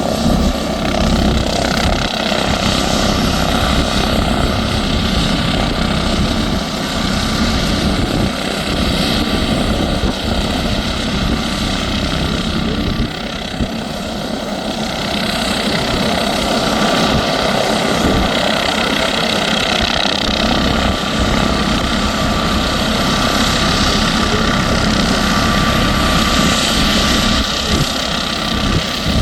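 MD 902 Explorer twin-turbine helicopter running steadily, a constant turbine whine over a dense rotor and engine rumble, dipping slightly about 13 seconds in.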